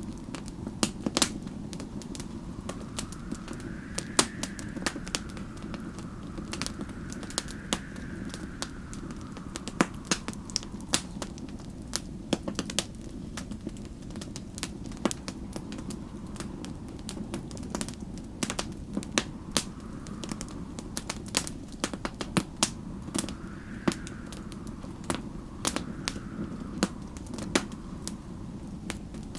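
Wood fire crackling with frequent sharp pops over a steady low rumble, while storm wind blows in slow gusts that rise and fall every few seconds.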